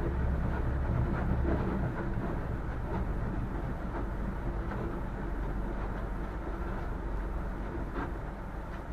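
Boat engine running steadily, a low rumble with the rush of the hull moving through water; the deepest part of the rumble eases about two seconds in.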